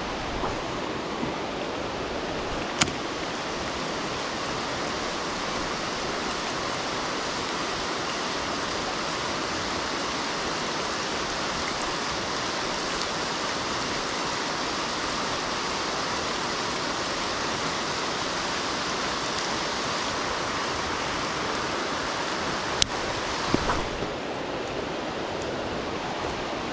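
Heavy rain falling steadily, a dense even hiss with no let-up. A few sharp ticks stand out, one near the start and a couple near the end.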